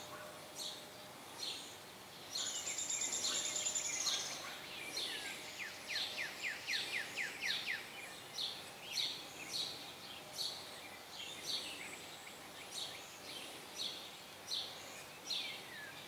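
Small birds calling outdoors: a rapid high trill about two and a half seconds in, then short downward-sweeping chirps repeated every half second or so. Under them is a faint steady whoosh from a vintage box fan coasting down after being switched off on low speed.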